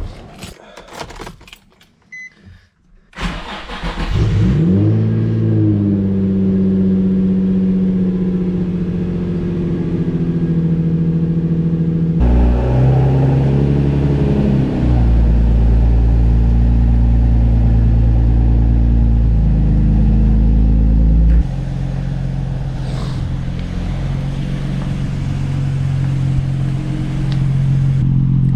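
Nissan 350Z's V6 on its first cold start of the day: a few clicks, then it cranks and catches about three seconds in, flares and settles into a steady idle through a freshly fitted Tomei exhaust. Partway through, a deeper, louder drone swells under the idle for several seconds, then drops back.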